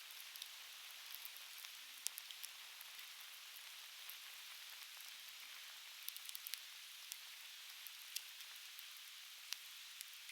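Conifer firewood burning, with sharp irregular crackles and pops, several in quick succession about six seconds in, over a steady rushing hiss from a nearby river.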